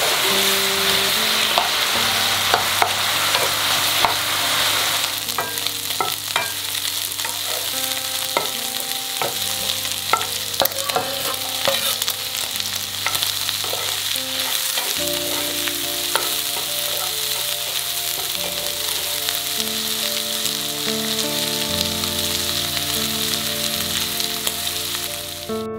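Chicken gizzards and whole garlic cloves sizzling as they are stir-fried in a hot oiled frying pan, with a spatula clicking and scraping against the pan. The sizzle is loudest for the first five seconds or so, then settles lower while the stirring clicks go on.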